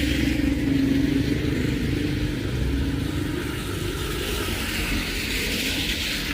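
A motor vehicle driving past on a wet road and moving away, its engine hum fading over the first few seconds, over a steady hiss of heavy rain.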